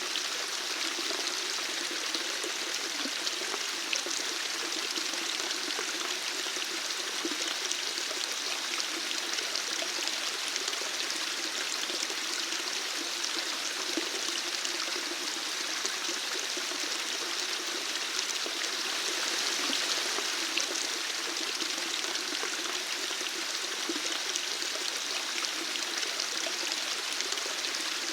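Running water flowing steadily, a stream-like splashing and trickling that holds even throughout.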